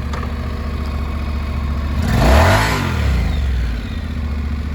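Honda NC700X's twin-cylinder engine idling steadily, then blipped once about two seconds in, the pitch rising and falling back to idle.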